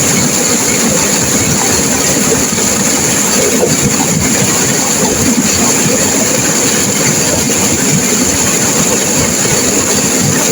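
Turbulent river water crashing and rushing, a loud, steady, unbroken sound.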